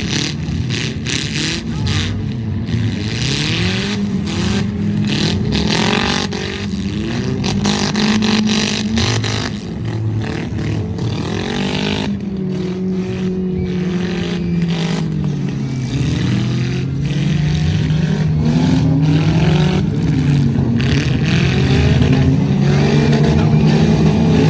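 Demolition-derby vehicle engines running and revving, their pitch rising and falling as they work, with many sharp knocks and bangs scattered through, more of them in the first half.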